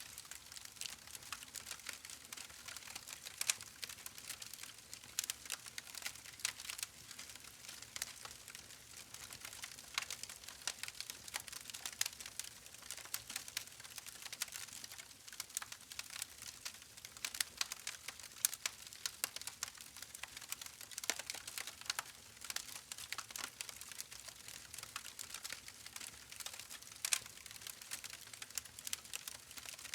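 Campfire crackling: wood burning with a dense, irregular stream of sharp pops and snaps over a soft hiss.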